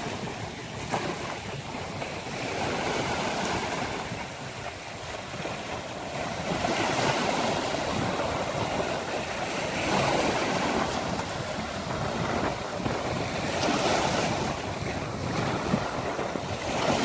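Ocean waves breaking and washing on a beach, rising and falling in surges, with wind buffeting the microphone.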